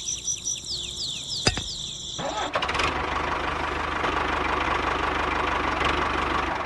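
High, repeated falling chirps, then about two seconds in an engine starts and runs steadily with a rough, fast-pulsing sound.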